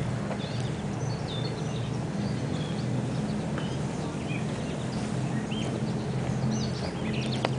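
Many short bird chirps and calls scattered throughout, over a steady low rumble.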